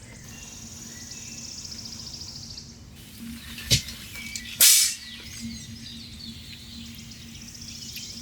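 A high, rapid trilling call, like a small bird's, for about two seconds, starting again near the end. About halfway through come a sharp click and then a louder brief knock or rustle.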